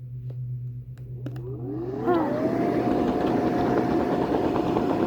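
A motor spinning up: its pitch rises for about a second, then holds steady under a growing rushing noise that gets louder.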